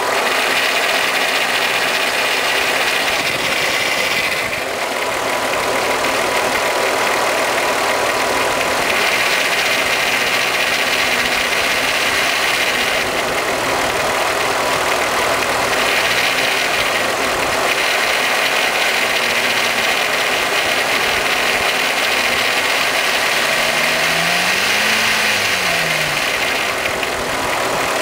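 Volkswagen 12-valve VR6 engine running steadily at idle, with a rattling timing chain noise; a higher part of the noise comes and goes every few seconds. About 24 seconds in, a low tone briefly rises and falls in pitch.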